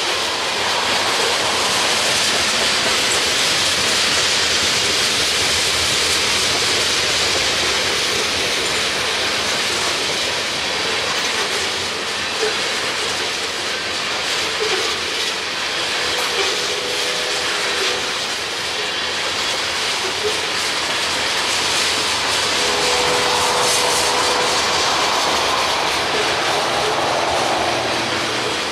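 Freight train cars rolling steadily past, wheels clicking over the rail joints, with faint brief wheel squeals twice in the second half.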